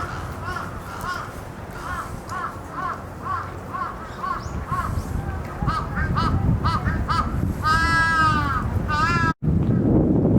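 Crows cawing in a rapid series of short calls, about two a second, then a longer drawn-out caw near the end, over a low crowd murmur. The sound cuts out for an instant just before the end.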